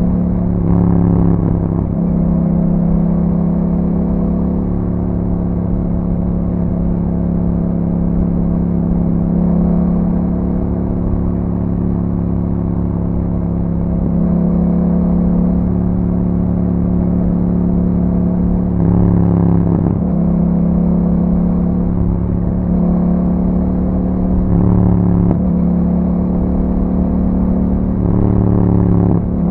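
A 2021 Yamaha MT-07's 689 cc parallel-twin engine, through an Akrapovic exhaust with a dB killer, running steadily while the bike is ridden, with several brief changes in engine note.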